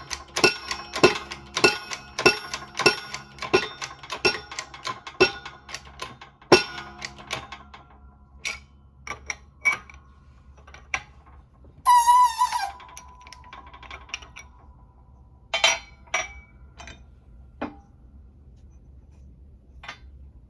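Hammer blows on ringing steel, about one and a half a second, stopping about seven seconds in. Then come scattered clinks of metal tools and a single ringing metal clang about twelve seconds in.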